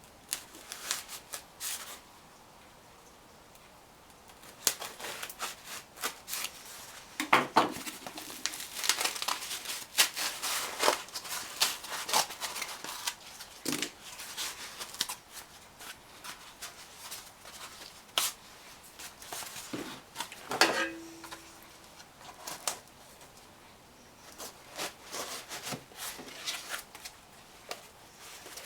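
Hand-cutting and trimming a homemade stereo bezel piece: irregular scraping, snipping and clicking strokes with handling knocks, starting a few seconds in, with a short squeak about two-thirds through.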